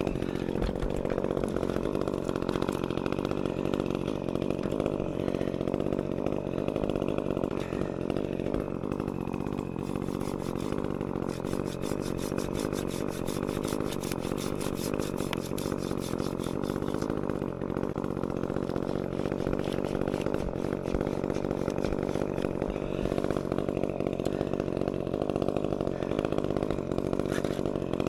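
Echo CS-355T top-handle two-stroke chainsaw running steadily, not revved.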